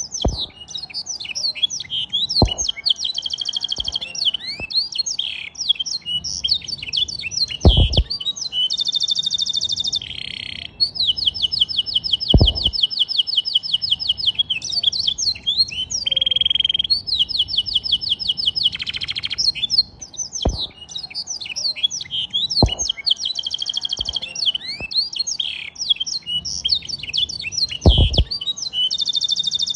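Domestic canary singing a long, unbroken song of rapid chirps and several long buzzing trills, its song tutored with black-throated canary (blackthroat) phrases. About six short, dull knocks fall between the phrases.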